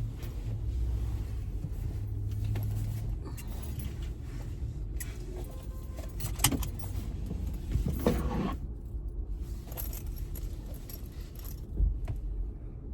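Low steady hum of a car's engine running inside the cabin, with brief jingling and rattling of small objects being handled about six and eight seconds in.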